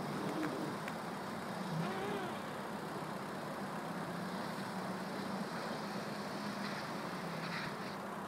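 Limousine engine heard from a distance, a steady drone as the car drifts sideways in snow.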